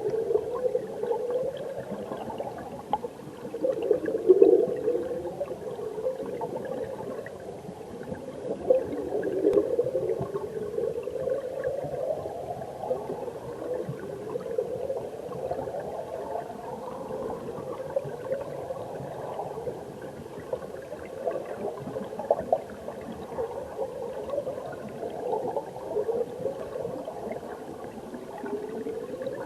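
Stream water heard underwater: a steady gurgling, bubbling wash of current over rocks, with a sound that rises in pitch every few seconds and a louder surge about four seconds in.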